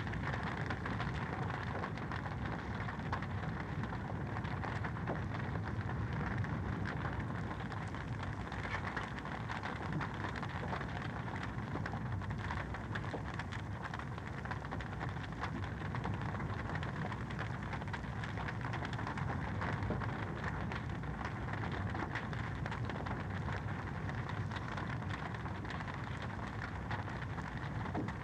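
Wood fire crackling steadily in a fireplace: a dense, unbroken run of small pops and snaps over a constant hiss.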